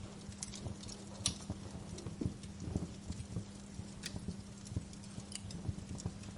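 Wood fire in a fireplace crackling: irregular small pops and snaps, with sharper pops about a second in and about four seconds in, over a faint steady low hum.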